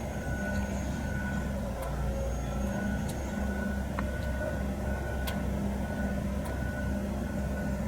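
Construction machinery running steadily in the woods: a continuous low engine drone with a wavering hum and a faint steady whine, plus a few light ticks.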